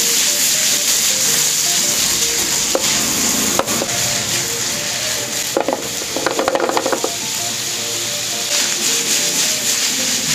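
Sliced onions and mushrooms sizzling steadily in a frying pan as they are tossed and stirred, with a few clicks and a quick run of clatters from the pan and food around the middle.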